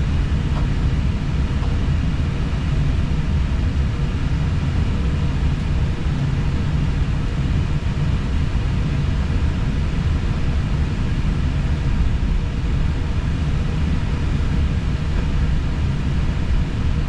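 Airbus A320 cockpit noise: a steady low rumble with an even hiss of airflow over it and a faint steady hum, unchanging throughout.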